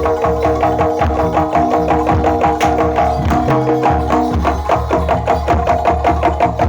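Live Javanese jaranan ensemble music: drums and struck percussion playing a fast, steady beat over sustained ringing tones.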